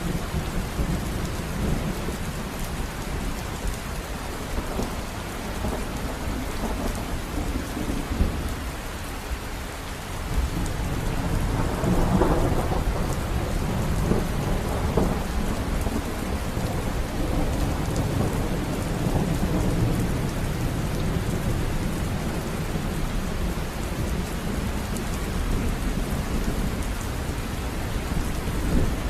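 River water running and rushing steadily, a continuous deep noise that swells slightly near the middle.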